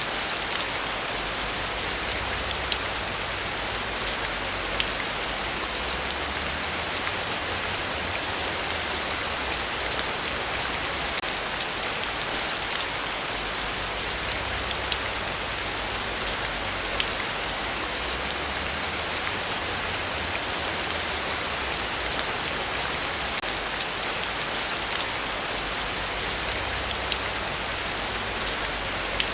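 Heavy rain falling steadily: a dense, even hiss with individual drops ticking through it. A faint low rumble swells and fades underneath.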